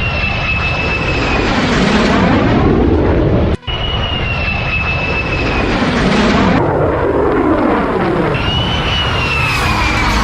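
Aircraft engine passing overhead, with a high whine that slowly falls in pitch. The sound breaks off sharply about three and a half seconds in, then starts again, like repeated spliced flyby recordings.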